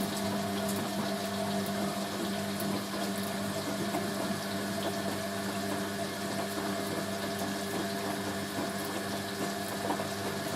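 Hoover A3060 washing machine's pump running with a steady hum over the sound of water, the drum standing still during a first rinse that the owner calls failed.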